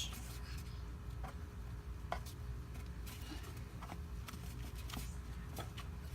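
Faint scattered clicks and taps of a new automatic transmission filter being handled and pushed into place, over a low steady hum.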